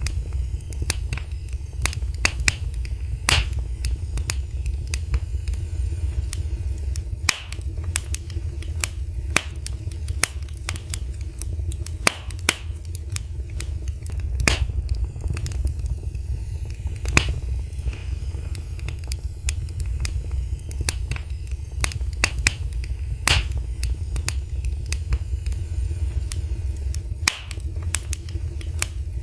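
Wood fire crackling and popping: irregular sharp snaps, several a second, some louder than others, over a steady low rumble of the burning fire.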